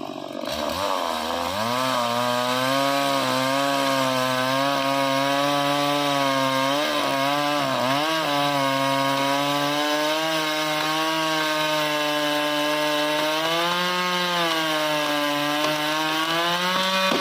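Stihl MS180 two-stroke chainsaw running at high revs while cutting into a tree, its pitch dipping briefly under load a couple of times and lifting again near the end.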